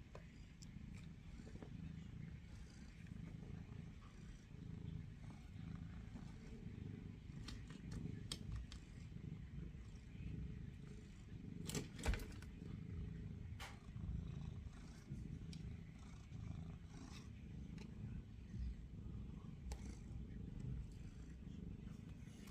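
Snowstorm wind buffeting the microphone: a low, uneven rumble, with a few faint clicks and a sharper knock about twelve seconds in.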